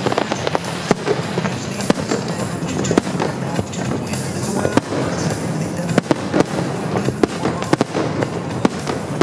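Fireworks shells bursting in quick, irregular succession, many sharp bangs and crackles, with music playing underneath.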